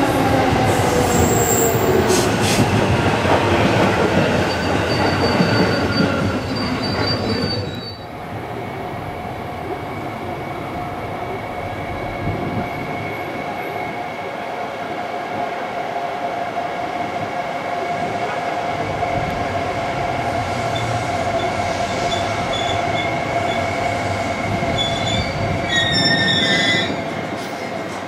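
JR East E231-500 series Yamanote Line electric train running past, its motor tones falling in pitch. Then, more quietly from about eight seconds in, an E231 Yamanote train pulling into a station platform with a steady high whine as it slows to a stop.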